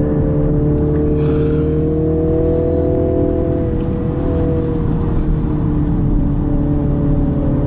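MINI JCW Countryman's four-cylinder turbocharged engine pulling under acceleration up a circuit incline, heard from inside the car. The engine note climbs steadily, drops a little about four seconds in, then holds.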